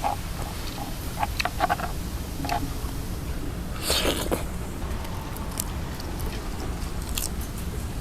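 Strong wind buffeting the microphone as a steady low rumble, with irregular light clicks and knocks and a brief scraping rustle about four seconds in.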